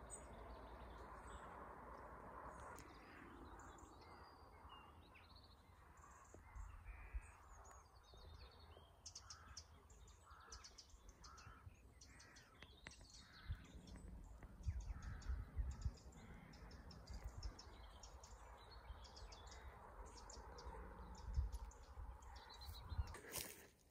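Faint bird calls, repeated many times, over a low irregular rumble.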